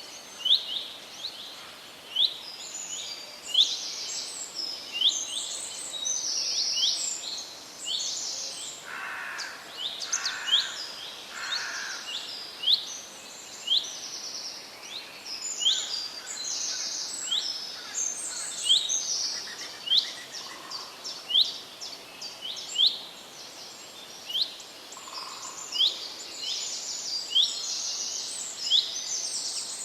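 Forest birds singing in chorus: short, sharp chirps repeat about once a second over denser, higher twittering. A few lower calls come in briefly near the middle.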